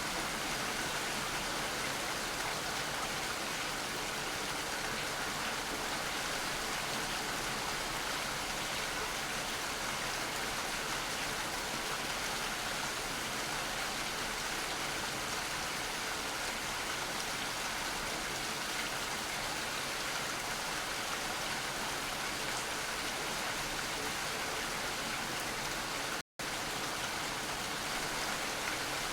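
Steady rain falling, an even hiss of many drops with no single drops standing out. The sound cuts out completely for an instant near the end.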